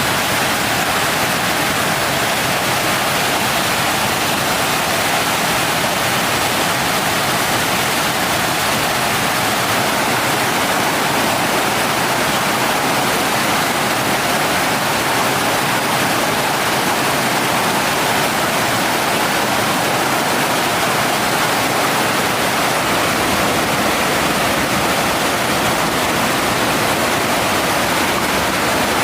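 Mountain stream water rushing steadily, a loud unbroken roar of flowing water.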